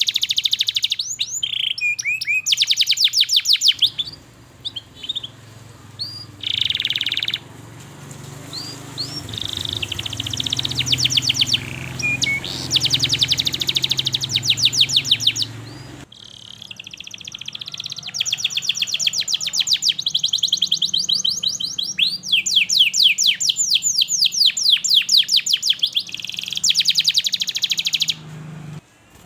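Domestic canary singing a long song of fast, evenly repeated trills, with short whistled and chip notes between them and brief pauses.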